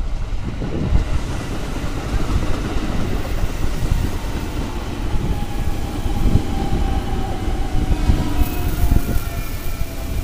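Electric commuter train running past at close range: a loud rumble of wheels on rail with irregular knocks, and from about four seconds in a thin whine that slowly falls in pitch.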